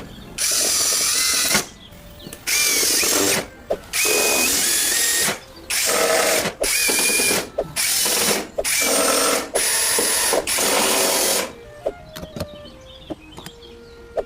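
A small power tool, drill-like, run in about eight short bursts of one to one and a half seconds each, stopping about eleven seconds in.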